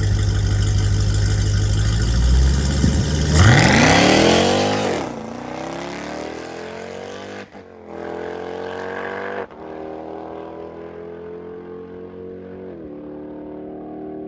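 High-powered car running hard, its engine note sweeping up and then down as it passes close by, then pulling away down the drag strip. The pitch climbs and drops back at each of three gear changes as it fades into the distance.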